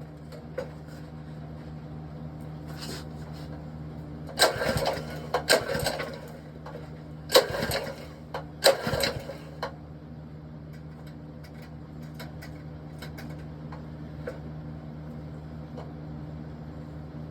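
Recoil pull-starter of an Ironton 208cc single-cylinder engine yanked several times in two groups, each pull a short rattling burst, with the engine not catching, over a steady low hum.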